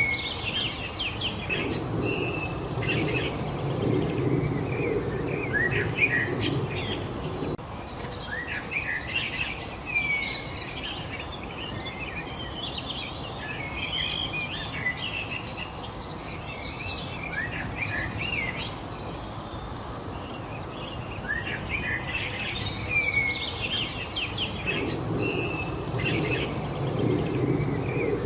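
Several songbirds chirping and singing in quick overlapping calls and trills over a steady background hiss. A low rumbling noise comes in for several seconds near the start and again near the end.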